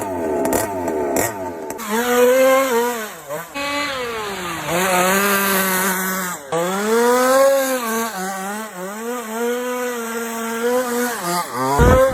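Small RC car engine revving up and down over and over, its pitch climbing and dropping every second or two with a buzzy, chainsaw-like note. It breaks off briefly about halfway through, and a loud low thump comes near the end.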